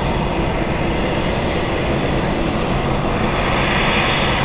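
Jet airliner engine noise, loud and steady, with a low hum beneath a broad rushing sound that swells slightly in its upper part about three seconds in.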